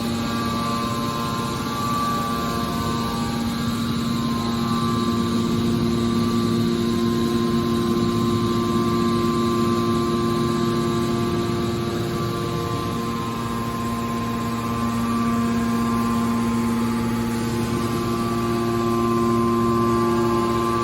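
Hydraulic metal baler's power unit running steadily, its electric motor and hydraulic pump making a hum with several fixed tones. For a few seconds past the middle the pitch shifts lower, then the usual hum returns.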